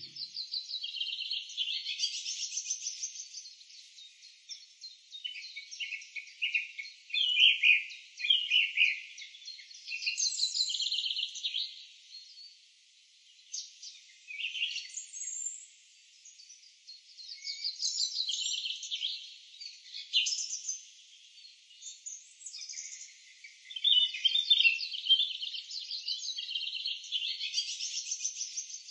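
Several birds singing, a chorus of rapid trills and short chirps coming in phrases with brief lulls. The sound is thin and high, with no low end.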